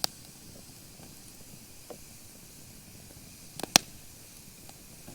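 Campfire of green, damp firewood hissing steadily, with a few sharp pops; the loudest comes as a quick pair about three and a half seconds in.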